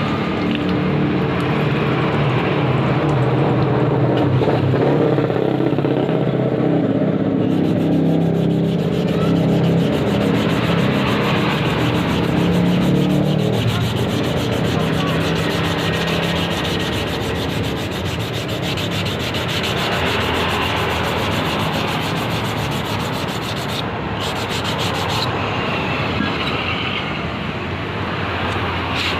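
Small ketinting longtail boat engine running steadily, with its pitch shifting a little at times.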